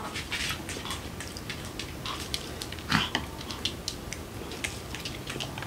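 Close-up eating sounds: chewing and lip smacking, with many small crisp clicks and crackles from the lettuce being handled into a wrap. There is one louder short mouth sound about three seconds in.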